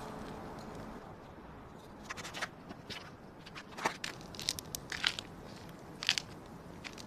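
Wood campfire crackling, with a run of sharp pops coming from about two seconds in over a steady hiss.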